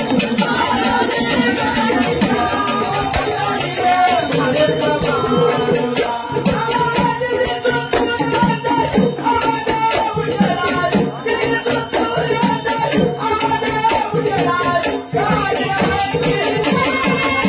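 Marathi gondhal folk music: drums beating a steady rhythm under a wavering melody, with jingling, rattling percussion on top.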